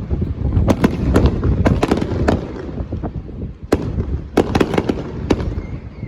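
Fireworks display: shells bursting in quick clusters of sharp bangs and crackles, over a steady low rumble.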